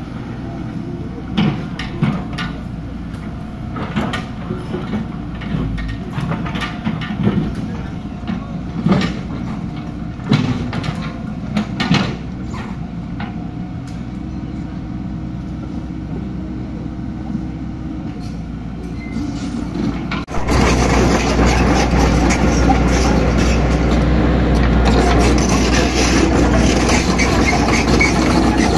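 Hydraulic excavator at work: its diesel engine runs steadily under scattered sharp metallic clanks and knocks. About two-thirds of the way through, the sound abruptly becomes much louder and denser and stays that way.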